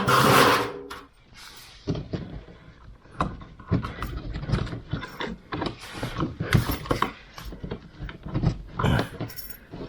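A metal fish chain being worked through a wall cavity. It starts with a loud scraping rush, then gives a run of irregular rattling clicks and knocks as it is pushed from above and pulled toward the outlet opening.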